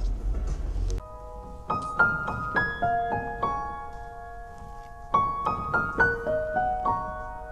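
Background solo piano music: ringing notes struck in short runs with a brief lull in the middle. A low rumble from the outdoor sound cuts off abruptly about a second in.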